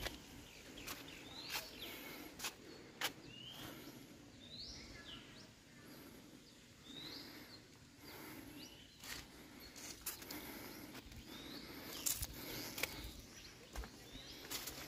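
Small birds chirping: short high calls that rise and fall, repeated every second or two over a low steady background. Scattered sharp clicks come in between.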